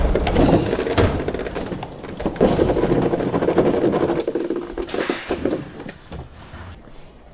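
Rumbling and clattering of equipment being moved, with scattered knocks, easing off and picking up again before fading near the end.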